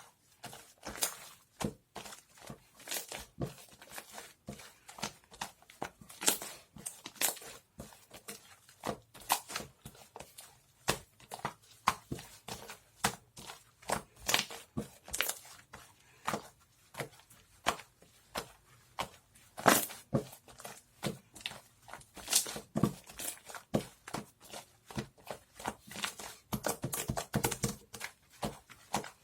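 Close-up handling of paper or plastic: irregular crinkling, rustling and tearing, with sharp crackles several times a second, busiest near the end.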